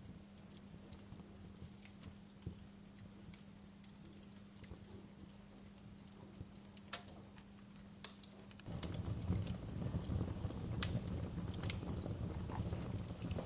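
Wood fire crackling in a fireplace, with sparse sharp pops and snaps. About nine seconds in, the sound suddenly grows louder, with a low rumble of flame and more frequent crackles.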